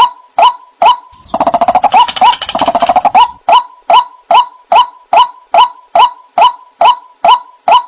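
White-breasted waterhen (ruak-ruak) calling: short loud notes repeated about two and a half times a second, broken about a second in by a two-second burst of fast chattering notes, then the steady repeated notes resume. This is a recording played as a lure call for the bird.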